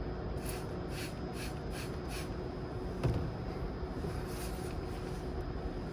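Hand-trigger spray bottle of engine-bay cleaner being pumped, a quick run of about six short sprays, then two more near the end. A brief vocal sound about three seconds in.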